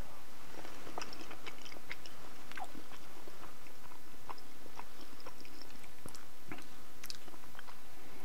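A man chewing a mouthful of soft macaroni and cheese close to a clip-on microphone: scattered small wet clicks of the mouth and lips.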